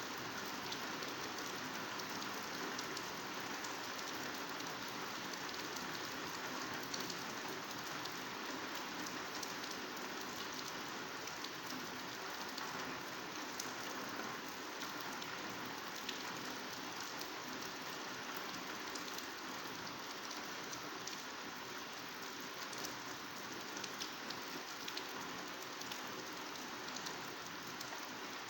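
Heavy rain, a downpour, falling steadily on leafy greenery: a dense, even hiss speckled with countless small drop ticks, with no let-up.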